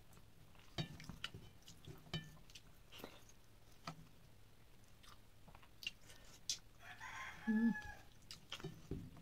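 Close mouth sounds of eating khichdi by hand: scattered soft clicks and smacks of chewing and of fingers working the rice. Near the end a short animal call of about a second cuts in.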